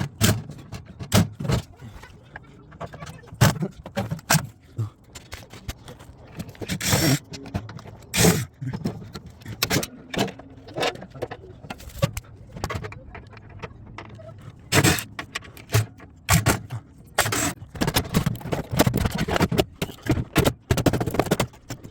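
Irregular metallic clanks, rattles and scrapes of hand tools and sheet-metal parts while a microwave oven is taken apart to remove its transformer, with a busier run of knocks near the end.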